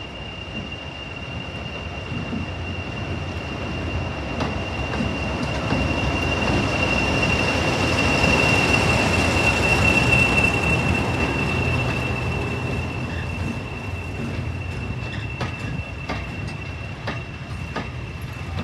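Diesel-hauled train passing, growing louder to a peak about halfway through and then fading. A steady high-pitched wheel squeal runs through it, with sharp clicks of wheels over rail joints near the end.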